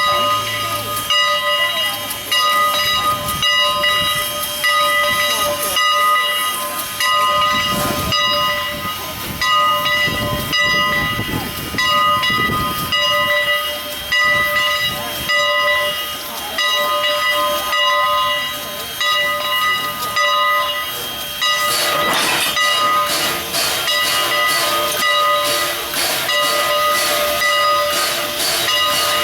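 Strasburg Rail Road's Engine 89, a 2-6-0 steam locomotive, hissing steam, with a pulsing beat about every two seconds. About 22 seconds in, a louder rush of steam joins.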